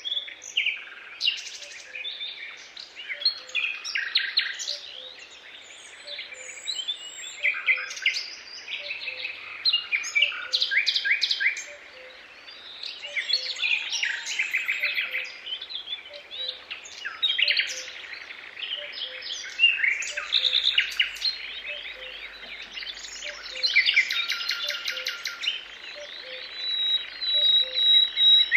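Several songbirds singing, a dense overlapping chorus of rapid trills and chirps. Underneath, a faint low note repeats at an even pace.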